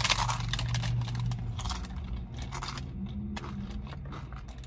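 Biting into and chewing a crunchy deep-fried Jack in the Box taco, the shell crackling in short crunches, loudest at the first bite. A low steady hum runs under the first second and a half.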